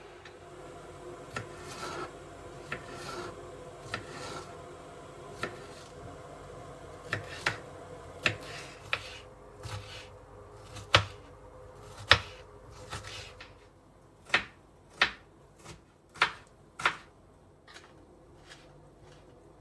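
Household handling sounds: light clicks and knocks at uneven intervals, about twenty in all, the loudest two a little past the middle, then a quicker run of five near the end.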